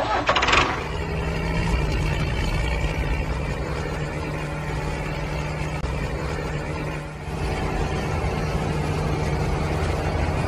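Tractor engine sound running steadily, with a short dip in level about seven seconds in.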